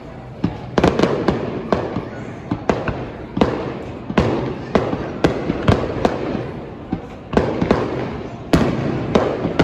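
Aerial fireworks going off in a rapid series of sharp bangs, about two a second, each trailed by a rolling rumble. The loudest bang comes near the end.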